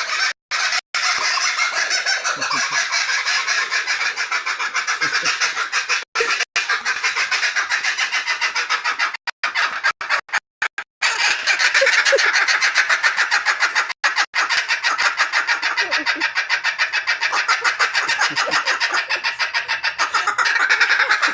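Kookaburras laughing in chorus: a long, fast run of loud, rapidly repeated calls that keeps going, broken by a few very short gaps.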